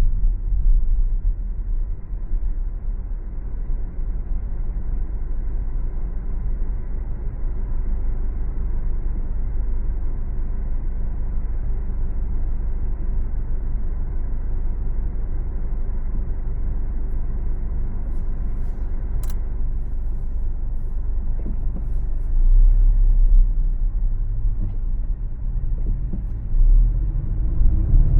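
Car driving along a city road: a steady low rumble of engine and road noise that swells louder a little past two-thirds of the way in and again near the end, with a single sharp click about two-thirds of the way through.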